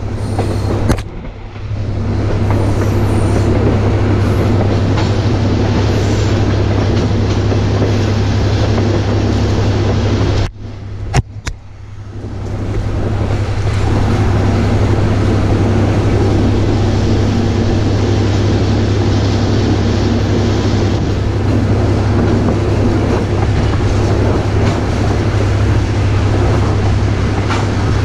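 Railroad train running along the track, heard from aboard the caboose: a steady low rumble with a rushing noise over it. The sound drops away briefly about a second in and again for about a second and a half near the middle, with one sharp click during the second drop.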